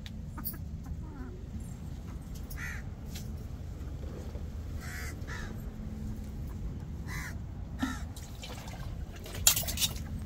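Birds calling in the yard: a series of short, harsh calls, about half a dozen, spaced a second or two apart over a low steady background. A brief, sharp, louder noise comes about nine and a half seconds in.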